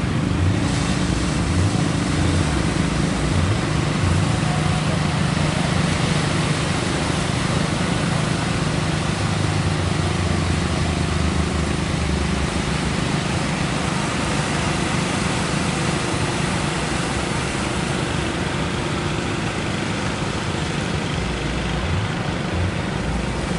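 Fishing boat's engine running steadily with a constant low hum, under a wash of wind and surf noise.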